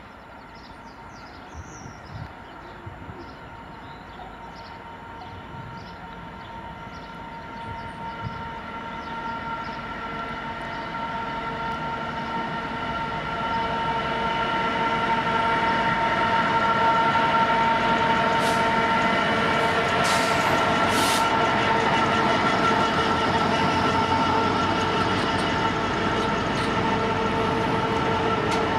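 Diesel freight train approaching and passing: the locomotive's engine grows steadily louder over the first half until it passes, then a long line of open box wagons rolls by at a steady level.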